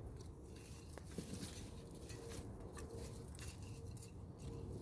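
Faint scattered rustles and ticks of soil being dug through by hand to unearth potatoes, under a faint steady hum.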